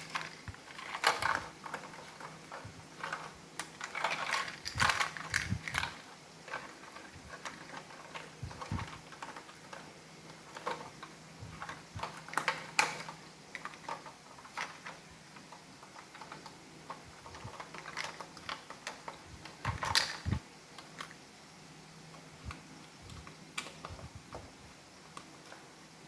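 Irregular plastic clicks, taps and small rattles as parts of an iRobot Roomba robot vacuum are handled and fitted together during reassembly, busiest in the first few seconds and again about halfway and near the end, over a faint steady low hum.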